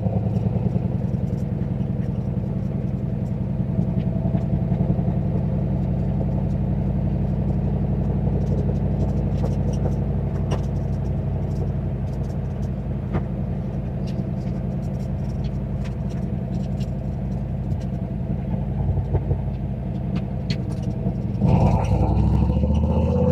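Turbocharged 351 Windsor V8 in a Fox-body Mustang, running at a steady cruise with a constant exhaust drone. Near the end the engine note changes and gets louder.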